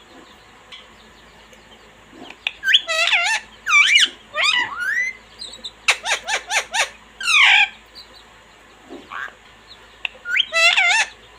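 Indian ringneck parrot calling and squawking in clusters of high, wavering notes, with a quick run of short sharp calls about six seconds in and another burst near the end.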